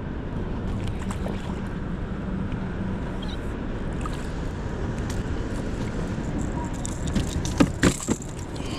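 Steady low outdoor rumble of wind and water noise, with a cluster of sharp knocks a little before the end.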